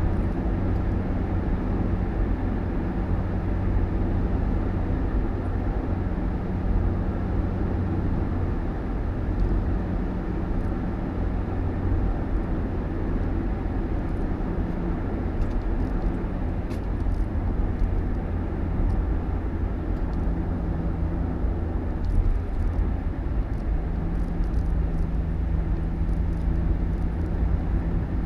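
A motor vehicle running steadily, with a low engine drone and road rumble that hold even throughout.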